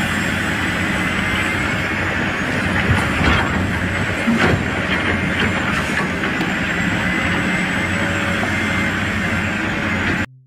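Machine running steadily, with a faint wavering high whine and a few short knocks about three to four and a half seconds in; it cuts off abruptly near the end.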